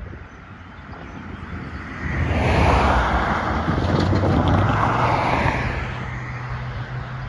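A vehicle passes close by, swelling and fading over about four seconds, with a low steady drone underneath.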